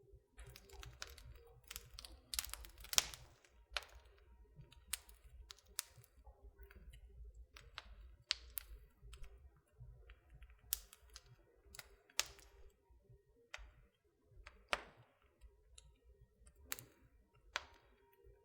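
Wood fire in a fireplace crackling: irregular sharp pops and snaps, a few of them louder, over a faint low rumble.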